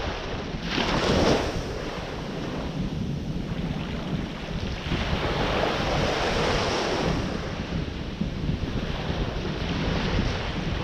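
Ocean surf breaking and washing ashore, with a sharp wave surge about a second in and a longer one in the middle. Wind buffets the microphone throughout as a low rumble.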